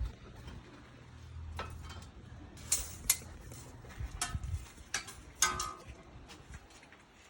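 Scattered metallic clinks and knocks of metal tools and parts being handled. The sharpest strikes come about three seconds in and again past five seconds, some ringing briefly.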